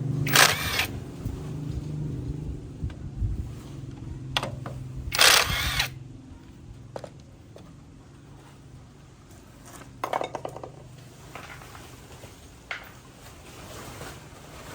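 Workshop tool noise: a low steady hum that fades out about six seconds in, with three short, loud scraping knocks near the start, a little after five seconds and about ten seconds in.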